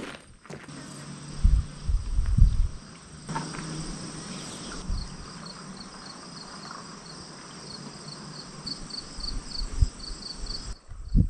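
Insects chirping in a quick, even pulse over a steady hiss, with a few dull low thumps in the first couple of seconds.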